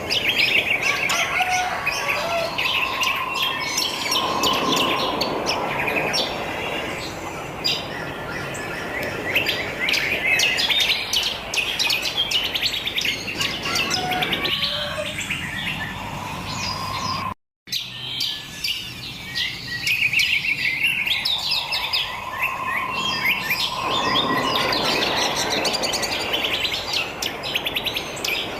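A dense chorus of wild songbirds chirping and twittering, many calls overlapping, with a longer held whistle now and then and a soft hiss beneath at times. The sound cuts out for a split second about halfway through.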